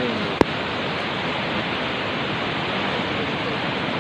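Floodwater rushing in a steady, even roar, with one sharp click about half a second in.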